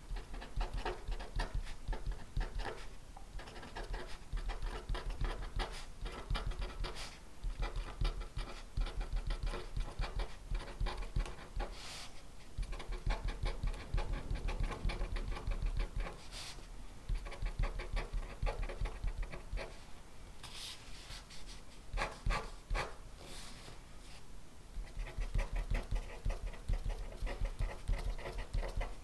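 Pen writing on paper: a long run of quick scratching strokes with short pauses, and a few sharper clicks here and there.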